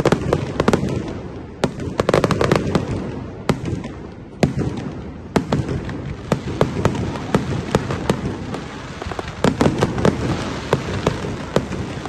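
Fireworks going off in a dense, irregular barrage: many sharp bangs and crackles over a constant low rumble, with busier clusters about two seconds in and again near ten seconds.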